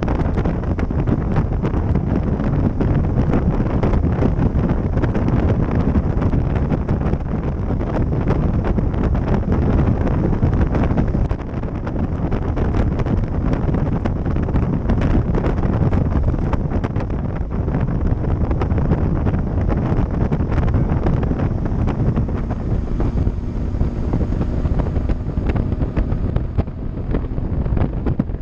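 Loud wind buffeting the microphone of a moving bicycle rider, a steady low rumble with constant crackling gusts and a brief lull about eleven seconds in.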